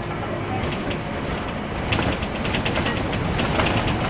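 Nearly 20-year-old Scania K230UB Wright Solar single-deck bus running, its five-cylinder diesel a steady low rumble. From about two seconds in, a quick run of rattles and clicks joins it, typical of a worn bus.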